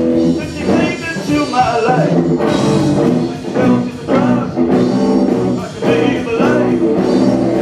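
Live band playing a blues-rock song, a voice singing over guitar accompaniment.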